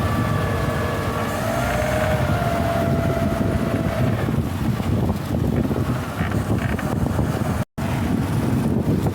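Bangka (motorised outrigger boat) engine running steadily under way, a loud low rumble mixed with wind buffeting the microphone; the sound cuts out for a split second about three quarters of the way through.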